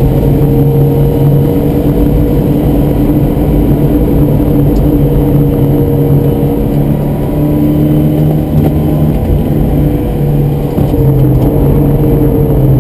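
Ford Escort Mk1 1100's four-cylinder engine running hard around a track, heard loud from inside the cabin. Its note holds fairly steady, with small shifts in pitch as the throttle is worked.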